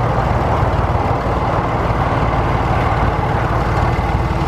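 Truck engine and road noise heard from inside the moving truck, a steady low rumble with no change in pitch or level.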